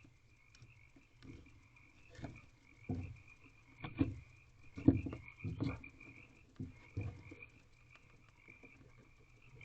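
Soft thumps and scrapes from a barn owl shifting about on the nest-box floor as she settles to brood, in a run of about six knocks, the loudest about five seconds in. A steady, high, wavering trill runs underneath.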